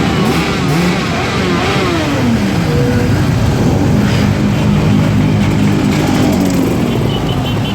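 Motorcycle engines revving, their pitch sweeping up and down, then an engine holding a steady note for a few seconds.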